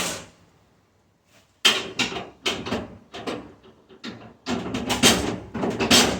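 Hand tools clanking and scraping against the stainless steel of a restaurant dishwasher as a socket wrench with an extension is fitted to a bolt. The irregular knocks start about a second and a half in.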